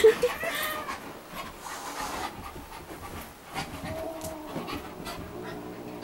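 A dog panting, with light scuffling noises, as it wrestles a cat.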